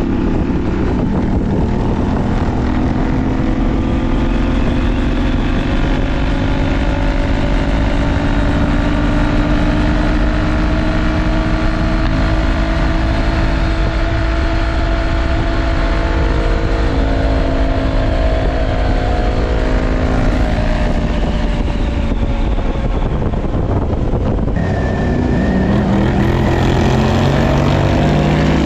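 Parallel-twin adventure motorcycle engine running under way, its pitch rising and falling with the throttle, over steady wind and road noise.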